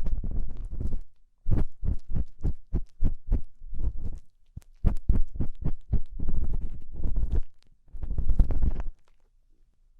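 Ear pick scraping and scratching in a binaural microphone's ear, a run of quick strokes with a heavy low rumble, pausing briefly about a second in, about four seconds in and near the end.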